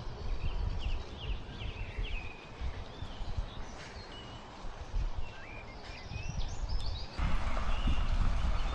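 Small birds singing, a string of short chirps and quick whistles, over a low uneven rumble. About seven seconds in, a louder, steady rushing noise sets in.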